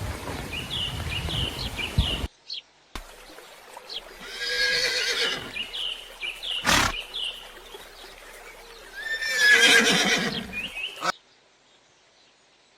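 A horse whinnying twice, each whinny a wavering call of about a second and a half, with short high bird chirps between and a sharp click between the two whinnies.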